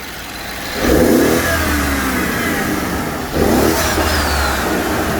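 BMW 550xi F10's twin-turbo V8 idling, then revved twice, about a second in and again around three seconds in, each rev rising sharply and falling back toward idle. It breathes through aftermarket dual intake pipes with open air filters and runs the stock mufflers.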